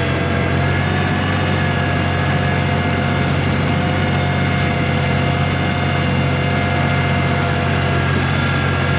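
1985 John Deere 1050 compact tractor's three-cylinder diesel running steadily while it pushes snow with a front blade.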